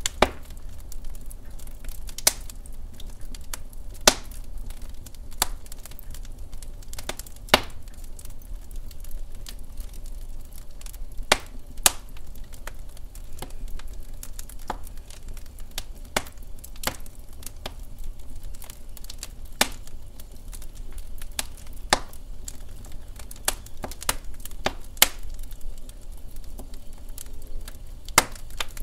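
Wood fire burning in a fireplace: irregular sharp crackles and pops from the burning logs, some much louder than others, over a steady low rumble of the flames.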